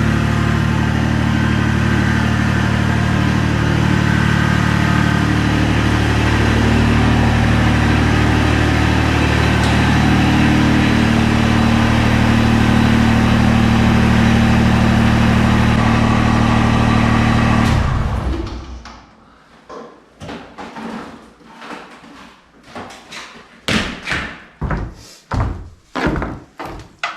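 Tractor engine idling steadily, shut off about eighteen seconds in; after it stops, a string of irregular knocks and clunks.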